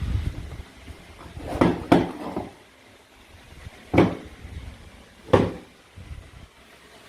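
Toy knife striking pieces of play-food fruit and vegetables on a cutting board, making four short knocks: two close together about one and a half seconds in, then one at about four seconds and one near five and a half seconds.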